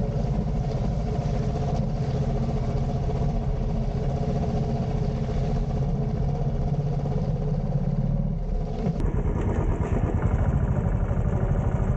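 Royal Enfield motorcycle engine running steadily. Its sound changes abruptly about nine seconds in.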